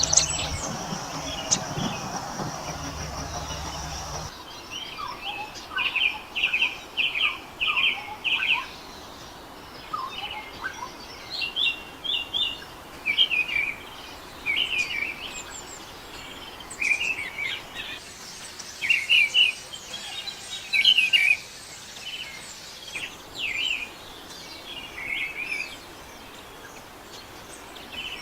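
Birds chirping in short, quick calls repeated in runs of several notes. A steady hum under the first four seconds stops abruptly, leaving the chirps over a quieter background.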